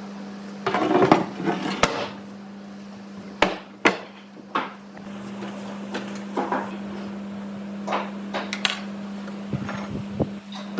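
Workshop handling sounds: irregular sharp knocks and clatters of hard objects, with a busy cluster in the first two seconds, over a steady low hum.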